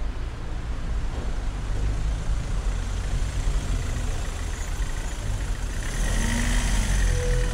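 Street traffic: a motor vehicle running nearby with a steady low rumble, growing a little louder near the end.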